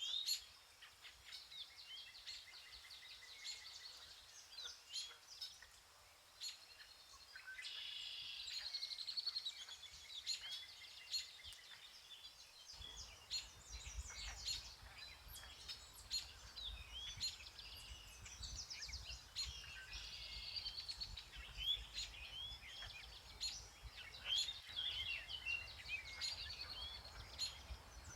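Several songbirds singing and chirping together in a dense chorus of short calls and warbled phrases. A low rumble comes in suddenly about halfway through and continues under the birdsong.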